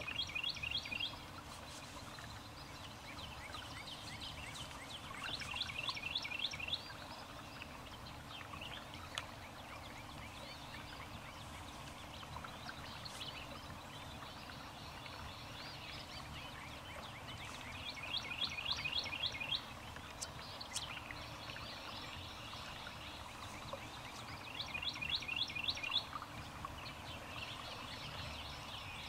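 A songbird singing: a short, fast trilled phrase repeated about every six seconds, with fainter chirps between, over a steady low rumble.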